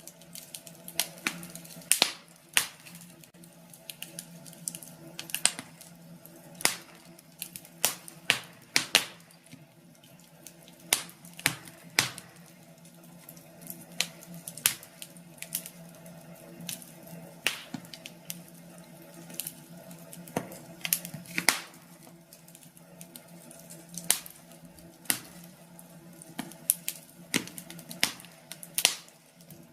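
Wood fire crackling in a fireplace: irregular sharp pops and crackles, a few a second, over a faint steady low hum.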